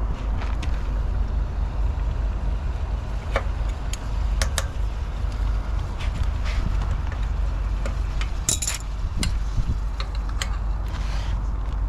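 An engine idling steadily with a low rumble, with scattered light metallic clicks and clinks and a short bright clatter about eight and a half seconds in.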